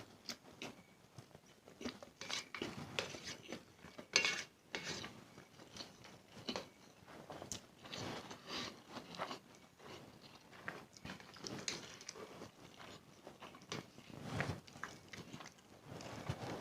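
A person eating instant noodles close to the microphone: irregular wet chewing, smacking and biting noises, the loudest a little after four seconds in.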